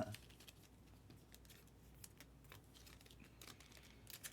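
Near silence with faint, scattered clicks and light rustling of trading cards and pack wrappers being handled.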